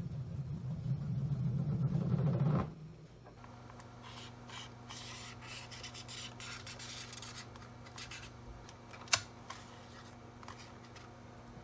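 A low hum that stops abruptly after about two and a half seconds, then soft, irregular rubbing and scraping of small-scale handwork, with one sharp click near the end.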